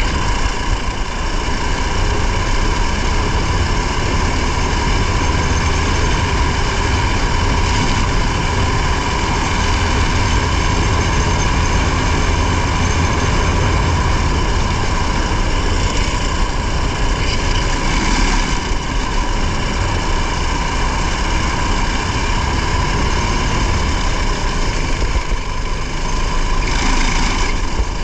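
Racing car's engine running hard and steady under load, a constant engine drone with low road rumble, heard from the onboard camera inside the car.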